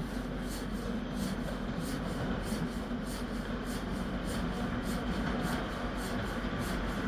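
Steady low rumble and hum of a train at a station platform, with faint, evenly spaced ticks about three times a second.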